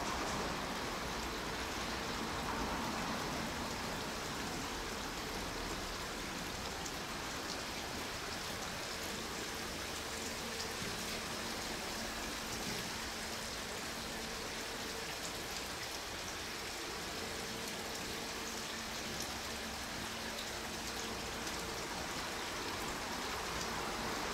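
HB-E300 hybrid diesel railcar creeping through a depot yard: a steady hiss of running noise with a faint hum that comes and goes.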